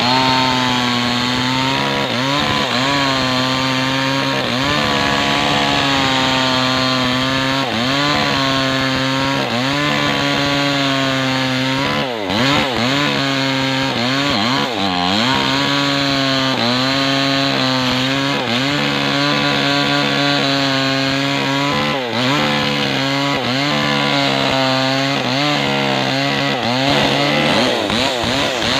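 Maestro 6500L two-stroke chainsaw running near full throttle while ripping a kapok log lengthwise. The engine pitch sags and recovers every second or two as the chain bites into the wood, with a few short dips near the middle.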